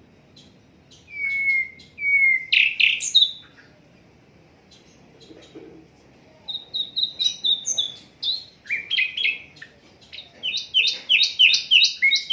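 Sikatan londo flycatcher singing in separate phrases: short clear whistles and chattering notes, a pause of a few seconds, then a run of quick repeated notes, about four or five a second, near the end.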